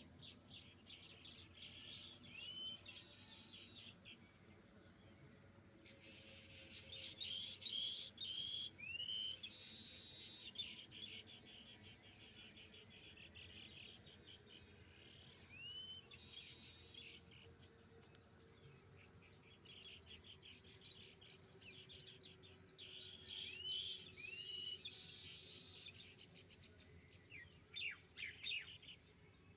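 Outdoor ambience of birds calling over chirping insects: short rising whistled bird notes recur every few seconds among stretches of rapid, high ticking trills.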